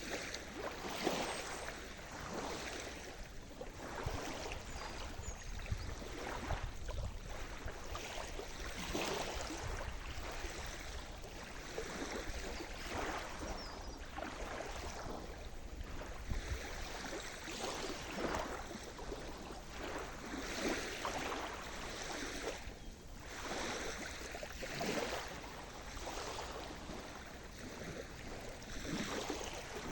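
Sea surf: small waves breaking and washing up the shore one after another, a swelling wash every second or two over a steady low rumble.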